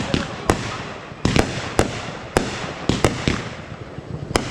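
Fireworks going off in rapid succession: about ten sharp bangs at uneven intervals, two or three a second, over a continuous crackle.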